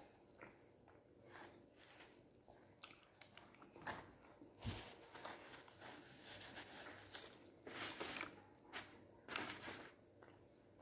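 Faint eating sounds: a man chewing a homemade pastry turnover, with a few soft rustles and clicks scattered through, a little louder about two-thirds of the way in.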